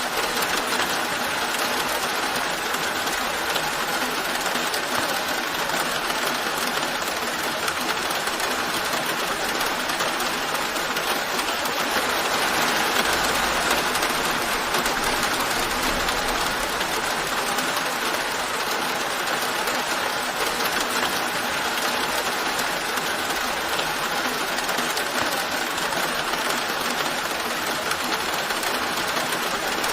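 Steady rain falling, an even hiss that swells slightly around the middle.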